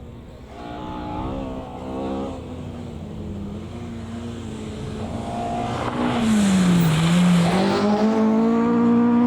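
Rally car engine coming through a stage: faint at first and climbing through the gears, then growing loud as it arrives, with the revs dipping and picking up again under a brief rush of noise before holding a steady high-revving note.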